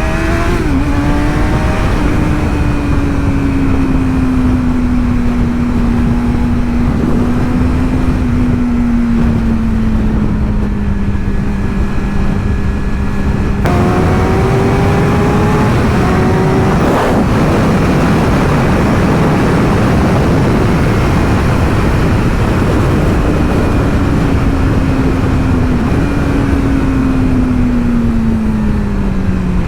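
Motorcycle engine running at a steady cruise, its pitch sinking slowly, then jumping up sharply about halfway through before drifting down again near the end. Wind and road noise on the microphone, strongest in the middle stretch.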